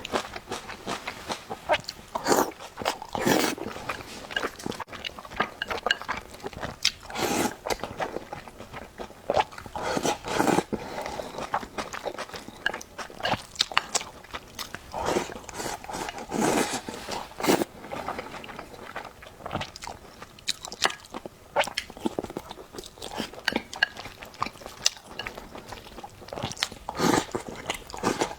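Close-up eating sounds: irregular wet chewing and lip smacking, with sharp clicks and crunches as food is bitten.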